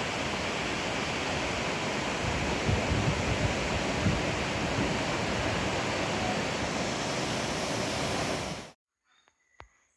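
Steady rush of water, typical of a waterfall, with no rise and fall. It cuts off abruptly near the end, leaving near quiet with a faint steady high tone and a couple of clicks.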